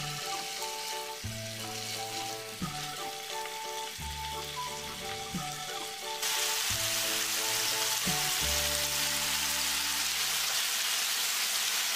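Bacon-wrapped enoki mushroom and shishito pepper rolls sizzling in hot oil in a frying pan, the sizzle getting louder about six seconds in. Soft background music plays along with it.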